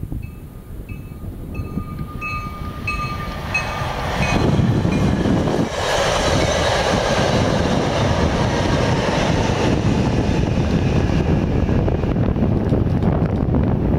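Altamont Corridor Express push-pull commuter train approaching and passing: a steady, loud rush and rumble of the cars going by, building up about four seconds in. Before that, a high ringing ding repeats about two or three times a second for several seconds.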